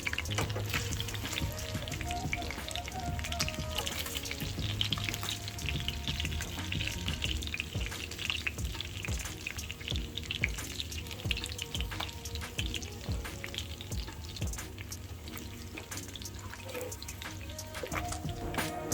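Pieces of boiled beef sizzling and crackling as they brown in hot oil in a pan, with soft background music.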